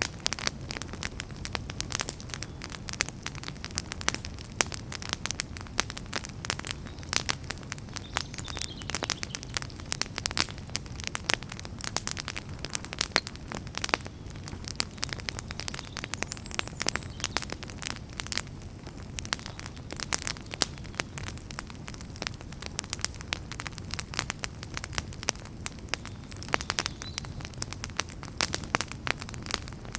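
Wood fire burning with dense, irregular crackling and popping over a low steady rumble of flames.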